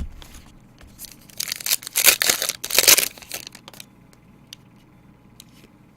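A trading-card pack wrapper being torn open and crumpled. A burst of crinkling starts about a second and a half in and is loudest between two and three seconds, followed by a few faint clicks.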